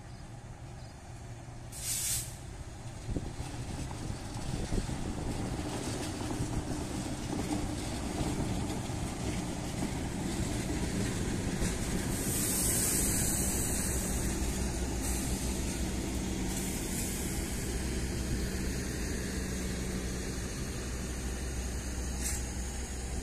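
Passenger train rolling past close by: a steady rumble of wheels on rail that builds over the first few seconds and then holds. Short hisses of air cut through it, a brief one about two seconds in and a longer, louder one near the middle.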